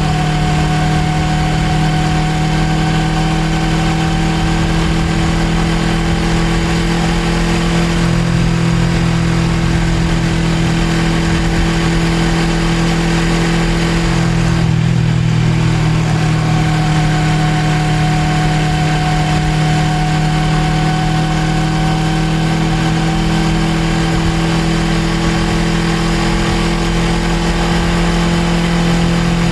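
Suzuki GSX250R's parallel-twin engine running steadily under way, heard from on board the motorcycle with road and wind noise. About halfway through the engine note drops briefly, then the pitch climbs slowly.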